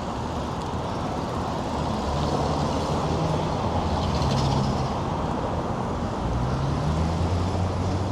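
Road traffic noise: passing motor vehicles' engines and tyres, a steady rush with low engine hums that swell and fade as vehicles go by.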